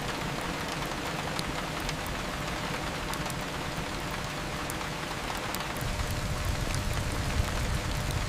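Steady rain falling, with scattered small sharp ticks over the hiss. A low rumble comes in about six seconds in.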